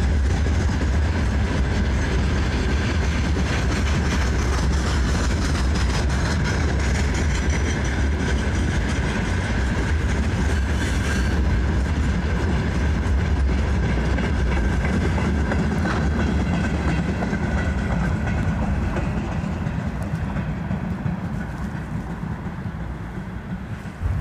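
Loaded freight wagons rolling past on the rails in a steady rumble. The sound fades over the last few seconds as the end of the train draws away.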